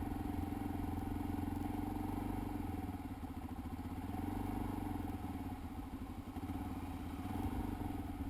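Dirt bike engine running steadily with rapid firing pulses, easing off a little twice and picking up again near the end.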